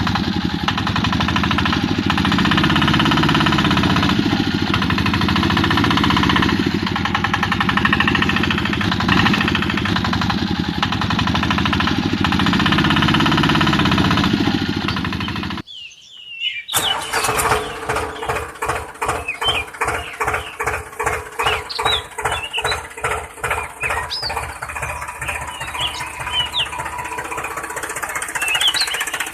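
A small motor running with a fast, dense buzzing chatter. About sixteen seconds in it stops briefly, then runs again as a rhythmic chugging of about two pulses a second with fine clicking.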